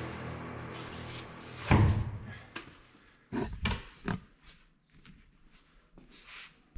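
Background music fading out, then a loud thump followed by a few sharper knocks and small clicks, like something being set down or shut in a small room.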